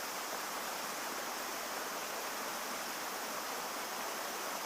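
Snowmelt water rushing steadily down a mountain creek and waterfall.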